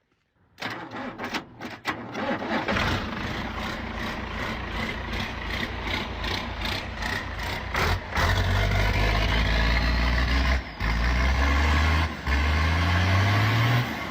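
A motor vehicle engine. At first comes a run of regular knocks over a noisy hum. From about eight seconds in, a loud low engine note takes over, and its pitch rises twice as it revs up.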